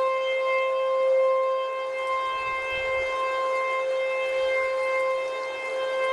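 Outdoor civil-defense warning siren sounding a tornado warning, holding one steady pitch with its loudness swelling and fading slightly.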